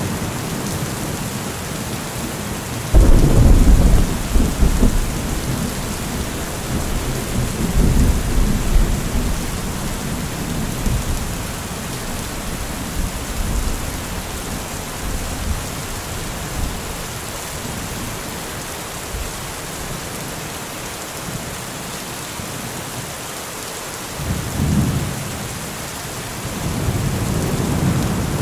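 Heavy rain falling steadily, with thunder: a sudden loud clap about three seconds in that rumbles on for several seconds, and more low rumbling near the end.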